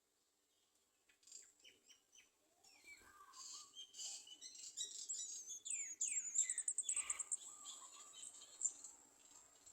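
Small birds chirping: short high chirps and downward-sliding calls begin about a second in and grow busier, with a quick rapid trill about six seconds in. A steady thin high insect buzz runs underneath.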